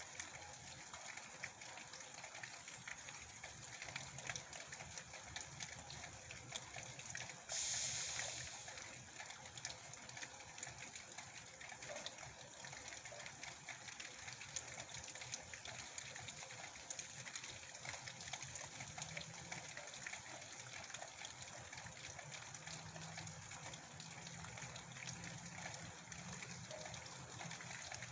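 Heavy rain falling steadily, a dense patter of drops over running water. About a quarter of the way in a sudden louder rush swells up and dies away over a second or two.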